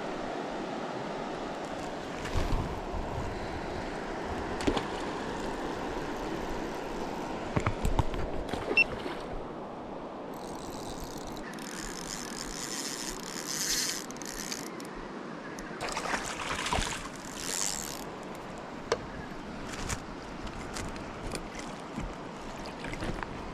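River water rushing steadily, with several sharp knocks in the first nine seconds and a few short splashy bursts later on.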